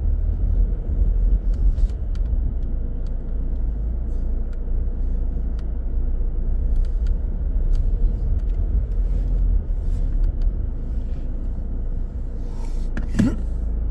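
Car driving, a steady low rumble, with a short sharper noise with a brief rising tone about 13 seconds in.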